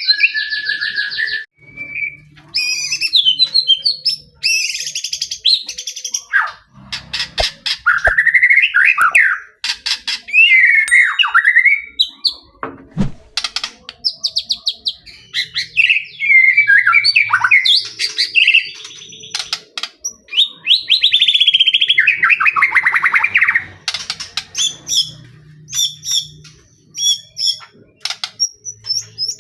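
White-rumped shama (murai batu) singing a loud, varied song: short fluty whistles and rapid trills sweeping up and down in pitch, broken by runs of sharp clicking notes.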